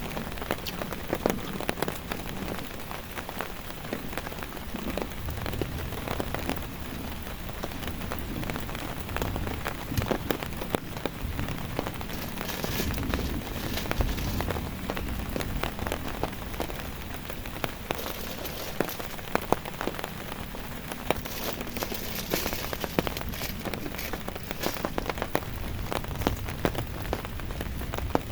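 Heavy rain: a steady hiss of rainfall with many sharp, close drops striking a surface.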